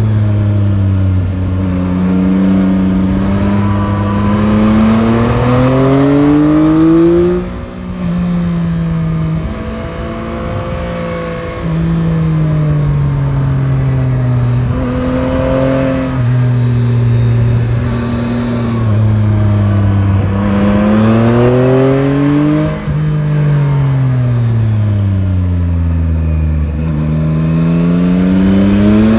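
Yamaha Tracer 9 GT's CP3 three-cylinder engine under way on the road, its pitch climbing as the rider accelerates and dropping back several times with shifts and throttle changes, with wind and road noise underneath. There is a brief drop in level about seven seconds in and a longer fall in pitch past the middle as it slows, before it climbs again near the end.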